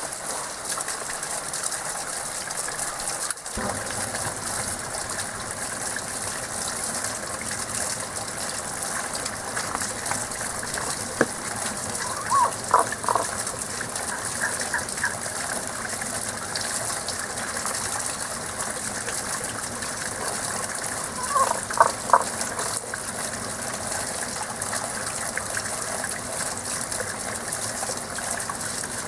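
Steady rush of flowing spring water, with frogs calling in short bursts of quick, rattling notes about twelve seconds in and again about twenty-one seconds in.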